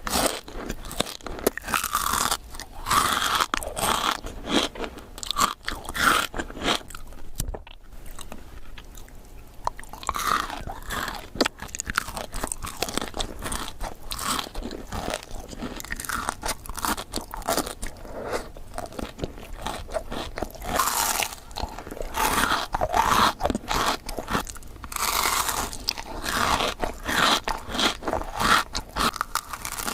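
Close-miked crunching bites and chewing of Dubai chocolate, the crispy kataifi-pastry and pistachio filling crackling between the teeth, with a short lull about seven seconds in.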